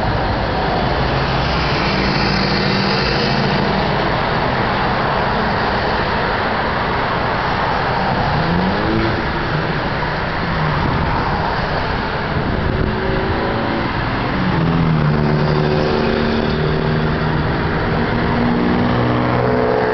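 Cars going by with engines running, a few revving up and easing off, over steady traffic noise.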